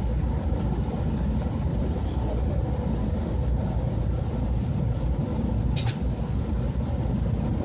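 Cabin noise of an E2-series Shinkansen running: a steady low rumble of the train heard from inside the car, with one brief click about six seconds in.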